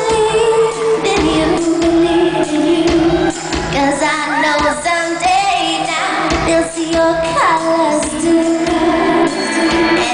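A woman singing a pop song live with a full band behind her, holding long, sliding notes.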